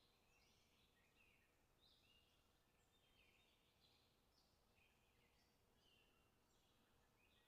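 Near silence, with faint, short, high-pitched sounds recurring about once a second over a low hiss.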